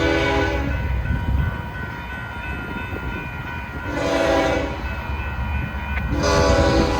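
Locomotive air horn blowing a chord in separate blasts over the steady low rumble of a passing freight train. One blast ends about half a second in, a short one sounds around four seconds in, and another starts near the end.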